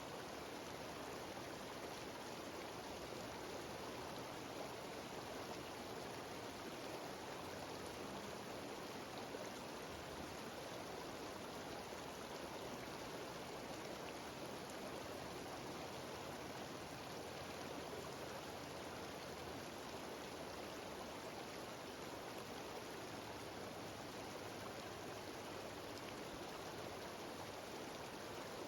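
Mountain stream cascading down a small waterfall: a steady, even rush of running water.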